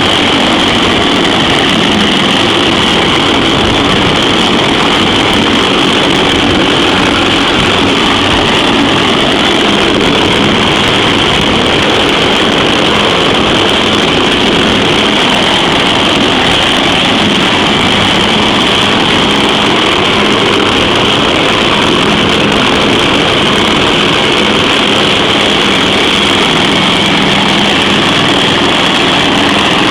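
CH-53E Super Stallion helicopter with its three turboshaft engines running steadily: a loud, even rush of noise with a high turbine whine that does not change.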